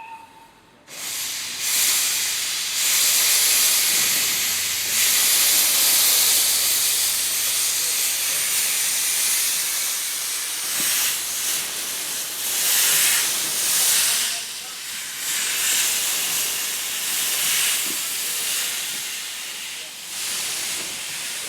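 Steam locomotive letting off steam: a loud, continuous hiss that starts about a second in and swells and eases every few seconds.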